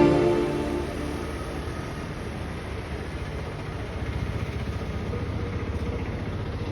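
Background music fading out in the first second, then a steady low rumble of railway station ambience that swells slightly about four seconds in.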